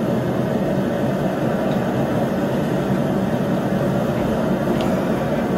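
A forge running steadily, an even rushing noise with no change in level, as the bar is brought up to an even heat for twisting. A faint light tick near the end.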